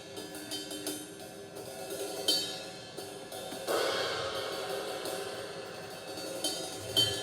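Recorded drum overhead microphone track playing back soloed: cymbals and hi-hat ringing, with a bigger cymbal crash a little under four seconds in and faint bleed from the rest of the band underneath.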